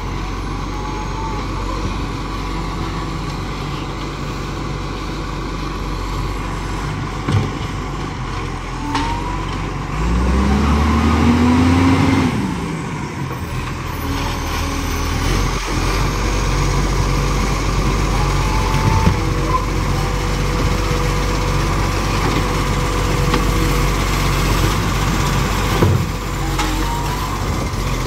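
Garbage truck's diesel engine running steadily. About ten seconds in it revs up for a couple of seconds, rising then falling in pitch. A few brief sharp sounds stand out over the engine.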